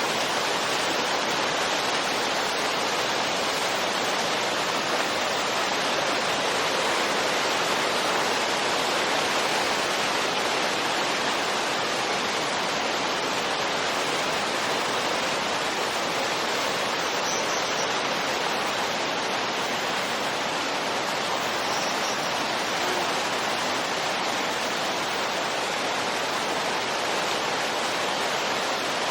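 Steady wind noise: an even hiss that holds an almost constant level throughout, without distinct gusts.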